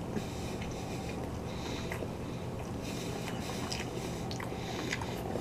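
A person chewing a mouthful of microwaved grilled chicken sandwich with a soft bun: irregular wet mouth noises and small clicks, over a low steady hum.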